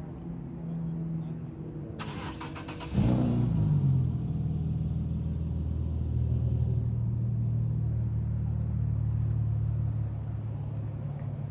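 Car engine started: the starter cranks for about a second, the engine catches with a brief rev, then settles into a steady idle.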